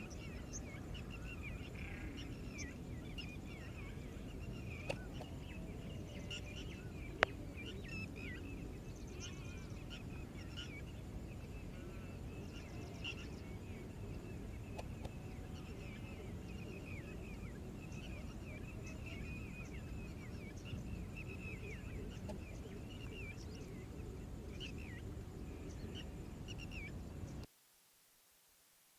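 Many small birds chirping over a steady low background hum of outdoor noise, with two sharp clicks about five and seven seconds in. Everything cuts off suddenly near the end.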